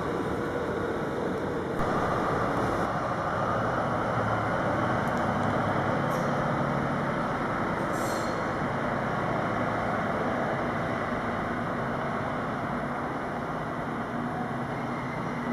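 An NS Sprinter electric train running past for the first couple of seconds, then a Captrain diesel locomotive running steadily along the line, its engine noise even throughout. Two brief high squeaks come near six and eight seconds in.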